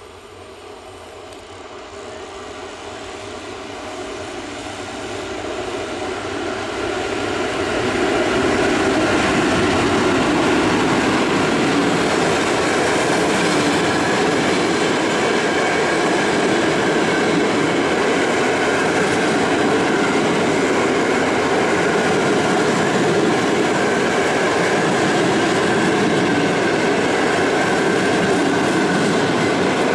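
Electric locomotive-hauled PKP InterCity passenger train passing through a station: wheel and rail noise growing louder as it approaches, loudest from about eight seconds in as the locomotive goes by, then a steady noise of the coaches rolling past.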